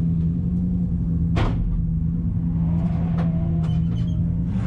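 A car engine running with a steady drone and a low rumble underneath. A short hiss comes about a second and a half in.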